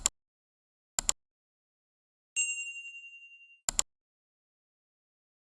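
Three sharp double clicks spread over about four seconds, and between the last two a single bright bell-like ding that rings and fades over about a second.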